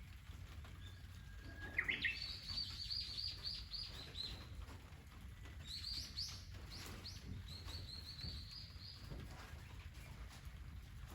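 A songbird singing two phrases: a short steady whistle leading into a quick rising run of notes and a high, rapid trill about two seconds in, then another rising run and trill from about six seconds in, over a steady low rumble.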